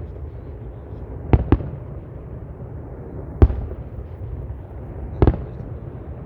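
Aerial fireworks shells bursting with sharp bangs: a quick pair about a second and a half in, then single bangs about two seconds apart, over a steady low rumble.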